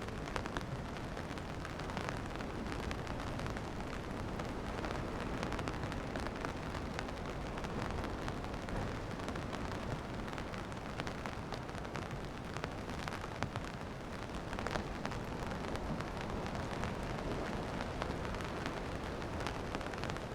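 Steady rain falling, with many small, close drop hits over a constant rushing noise.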